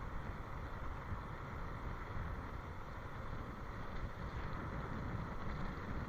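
Steady wind buffeting the microphone, a fluttering low rumble with an even hiss above it.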